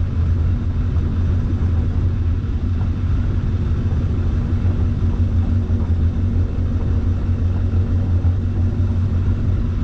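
An engine idling steadily with an even low rumble and no revving.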